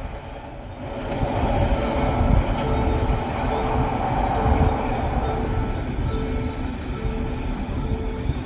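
Diesel train rumbling at a station platform, getting louder about a second in. A short tone repeats about every 0.7 seconds over the rumble.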